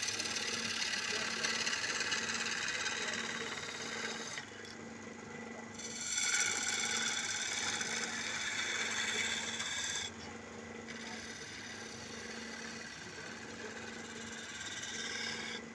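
Wood lathe running with a steady motor hum while a turning chisel scrapes and cuts the spinning wood. The cutting noise is loud at the start, eases off about four seconds in, comes back strongly at six seconds and drops again at ten seconds.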